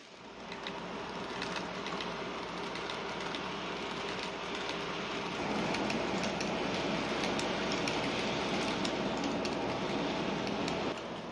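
A train running on rails, a steady running sound with many small wheel clicks, getting louder about halfway through and dropping off again near the end.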